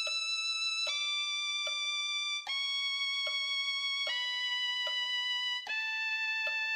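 B minor scale played on the violin, descending step by step, each note held steady for about 0.8 seconds.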